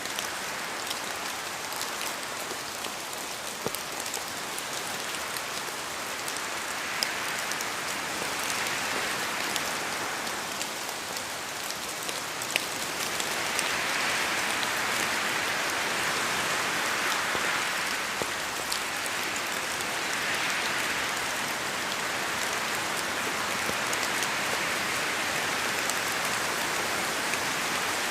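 Steady rain falling, an even hiss with scattered sharp drop ticks; the rain swells a little heavier about halfway through.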